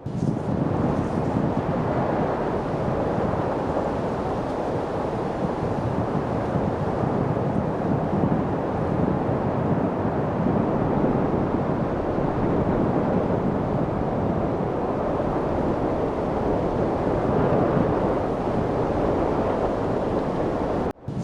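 Steady wind, a continuous low, even rush with no gusting changes, broken by a brief dropout near the end.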